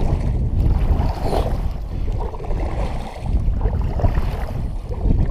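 Wind rumbling on the microphone while a kayak is paddled. Brief swishes of the paddle in the water rise above the rumble a few times.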